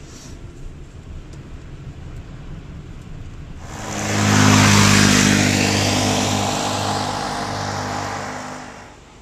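A motor vehicle drives past close by: its engine hum and rushing noise swell suddenly about three and a half seconds in, peak, then fade away over the next five seconds.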